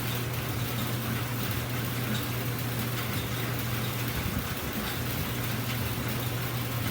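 A steady low hum under an even hiss, with a brief dip about four seconds in.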